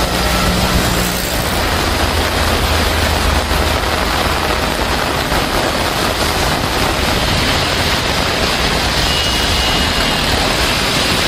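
Heavy rain falling steadily, mixed with traffic on a wet road. A low engine rumble is prominent in the first few seconds.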